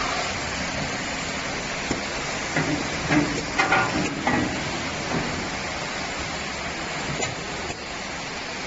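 5-axis CNC wood lathe running, a steady hissing machine noise, with a few brief knocks and short tones about halfway through.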